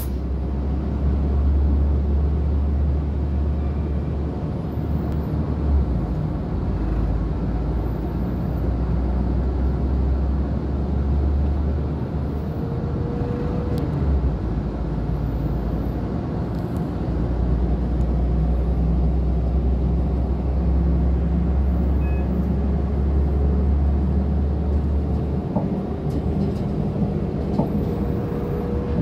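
Running noise of a passenger train heard from inside the carriage: a steady, deep rumble of the wheels on the rails. A faint whine rises slowly in pitch twice, about halfway through and again near the end.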